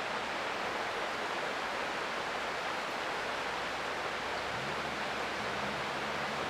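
Creek water rushing steadily, an even hiss with no breaks. A faint low hum joins it about four and a half seconds in.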